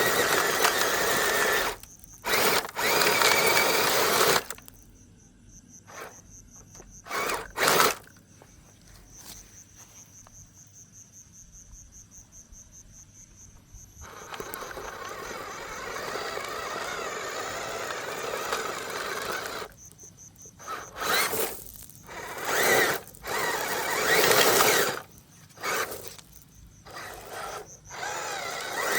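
Small electric motor of a toy truck whirring in bursts, starting and stopping several times with short quiet gaps, and a longer, quieter steady run in the middle.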